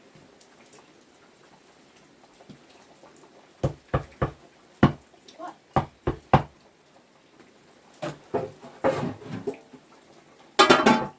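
A series of sharp knocks and bangs, about seven spaced over a few seconds, then a busier run of clatter and a loud, pitched burst near the end.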